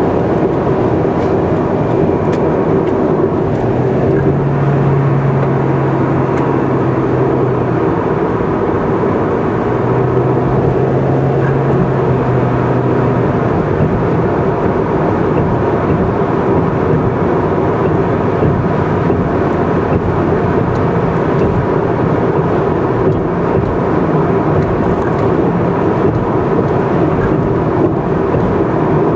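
Steady road and engine noise of a car cruising at expressway speed. A low hum rises in about four seconds in and again about ten seconds in, each lasting a few seconds.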